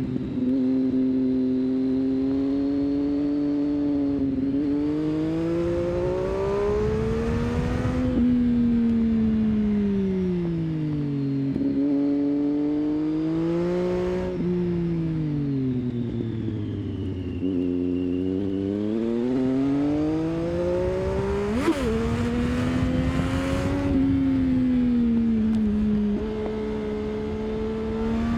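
Triumph Street Triple 675's inline three-cylinder engine through an aftermarket 3-into-2 exhaust, on and off the throttle through a run of curves. Its pitch climbs and falls over and over, with sudden jumps at gear changes.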